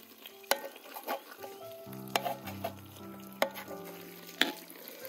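Oil sizzling in a large kazan of pilaf as a long metal tool is pushed down through the rice, with several sharp clicks of metal on the pot about a second apart.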